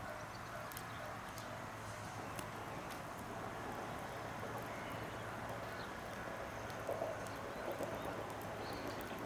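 Wood fire crackling: scattered sharp pops and ticks over a steady hiss, with a few louder knocks late on.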